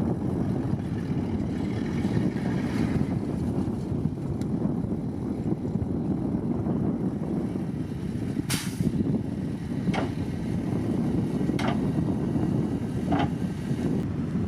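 Diesel engines of heavy earthmoving equipment running with a steady low rumble, with four short hisses in the second half, the first the loudest.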